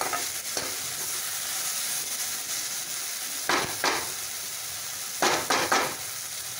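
Chopped onion and tomato sizzling as they fry down in oil in a kadhai, stirred with a metal spatula, with louder scrapes of the spatula across the pan about three and a half and five and a half seconds in.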